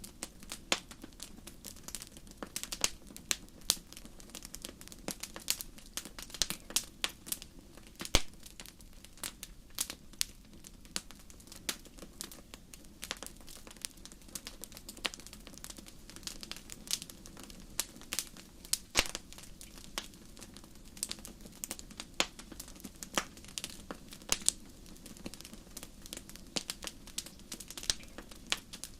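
Campfire crackling: irregular sharp pops and snaps of burning wood, several a second, with a few louder pops, over a steady low rush from the flames.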